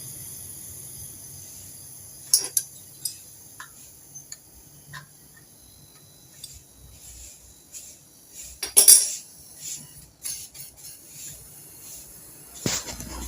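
Scattered metallic clicks and clinks of tools and pipe fittings being handled on a fridge's refrigerant line, with a louder rattle about nine seconds in and another near the end.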